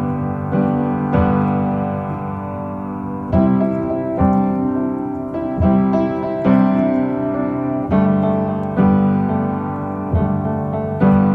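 Background music: a piano playing chords, a new chord struck about once a second, with no singing.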